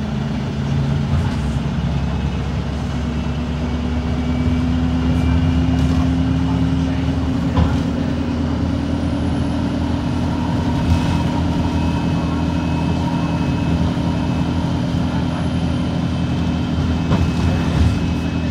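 Cummins ISB4.5 four-cylinder diesel of an Alexander Dennis Enviro 200 MMC bus running under way. Its note rises slowly for the first seven seconds or so, changes with a click about seven and a half seconds in, then stays steady.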